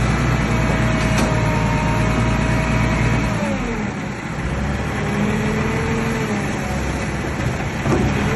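Bulldozer's diesel engine running under load, with a whine over it; about three and a half seconds in, the engine note and whine drop and the low rumble eases off.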